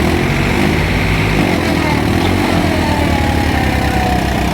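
Diesel tractor engines running loud with a steady, pulsing low rumble.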